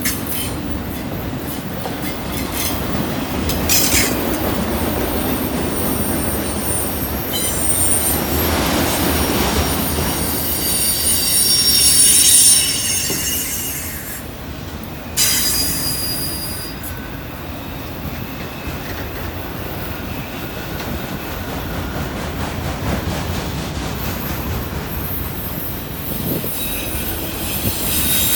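Freight cars of a long train rolling past on a curve, their wheels squealing against the rail in high thin tones that come and go over a steady rumble. There is a sharp knock about halfway through.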